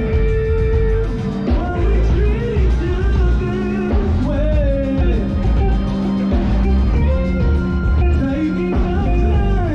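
Live band playing rock music, a gliding lead melody over a heavy bass line.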